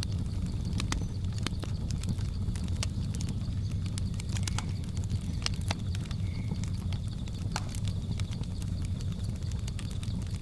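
Wood fire crackling, with irregular sharp pops and snaps over a steady low rumble of the flames. A faint steady high drone of jungle insects runs beneath, with a couple of brief chirps.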